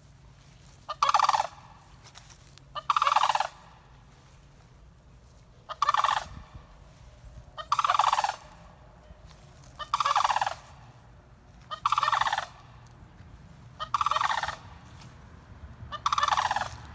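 Sandhill crane calling. There are eight rolling calls, each about half a second long, repeated roughly every two seconds.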